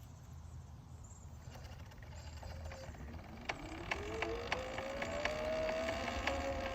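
Sur-Ron electric dirt bike's motor whining and rising in pitch as it speeds up. From about halfway in, a sharp knock repeats about twice a second: the knocking noise the bike is making.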